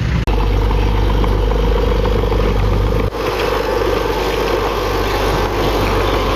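Heavy diesel earthmoving machinery running steadily with a deep engine drone. The sound changes abruptly twice, a third of a second in and about three seconds in.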